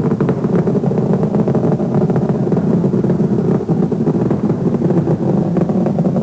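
Rocket launch roar: a loud, steady low rumble laced with continuous crackling.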